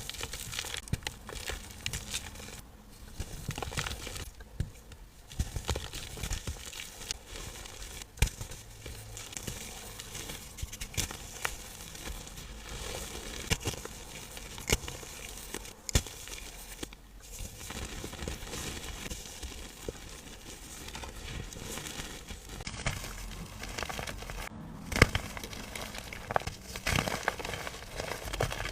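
Dry, powdery chalk-like blocks crushed and crumbled by hand: continuous soft crunching with many irregular sharp cracks, one especially loud crack about 25 seconds in.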